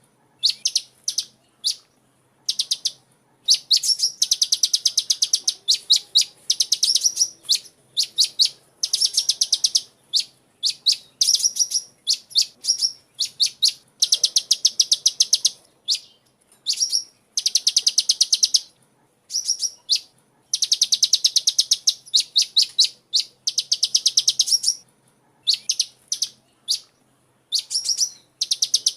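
A sunbird chirping in rapid runs of high, sharp notes, each run lasting about a second with short pauses between, repeated over and over.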